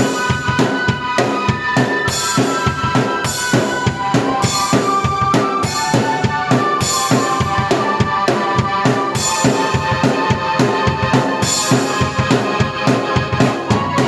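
Drum kit and keyboard played at once by one player: a steady beat of bass drum and snare, with recurring cymbal hits, under a sustained keyboard melody.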